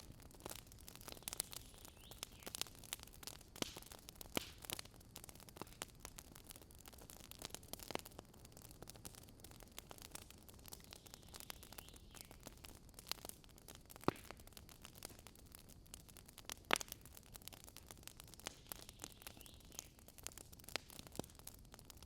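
Wood campfire burning with irregular crackles and snaps over a faint hiss, and two sharper pops in the middle.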